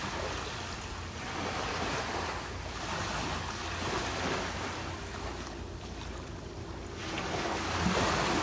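Ocean surf washing in swells that rise and fall, with wind rumbling on the microphone.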